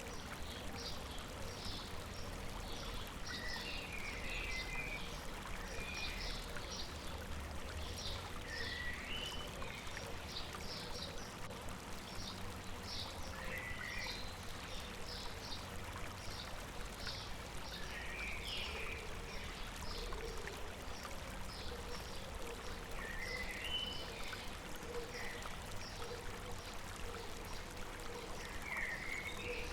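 River water running steadily, with birds singing over it: many short high chirps throughout, and a brief rising song phrase repeated about every five seconds.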